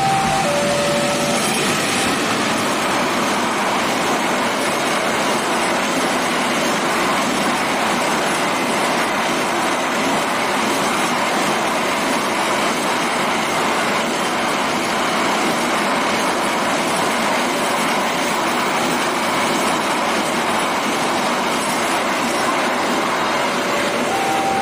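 Freight train hauled by a diesel locomotive passing over a level crossing: a steady rumble of wheels on the rails. A two-note level-crossing warning alarm alternates in the first second and starts again near the end.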